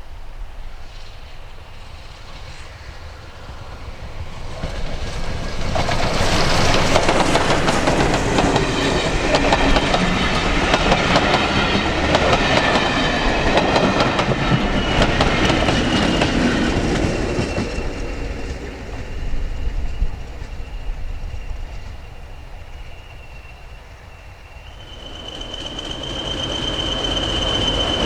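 A train passing on the rails, its wheels clattering, building up to a loud stretch of several seconds and then fading. Near the end the noise rises again with a steady high wheel squeal.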